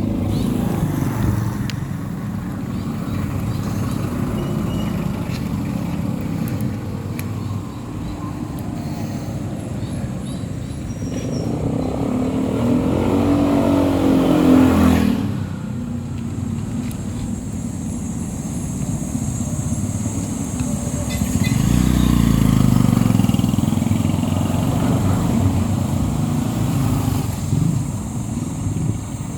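Road traffic and vehicle engine noise with low rumble, heard while riding. About halfway through an engine note swells and shifts in pitch, then drops away suddenly, and a heavier low rumble follows a few seconds later.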